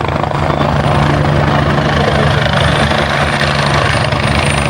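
Helicopter hovering: a steady, continuous engine hum with a fast rotor beat underneath and a thin, faint high whine.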